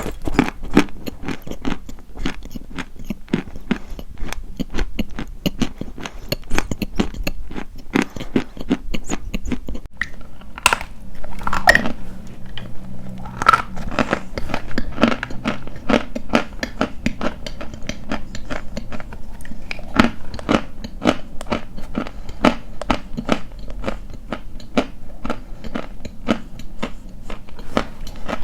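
Dry white chalk being bitten and chewed close to the microphone: a continuous run of quick, crisp crunches.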